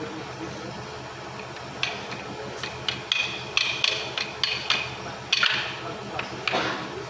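Metal tools striking metal parts during lorry gearbox repair work: about a dozen sharp, ringing metallic knocks at an irregular pace, starting about two seconds in.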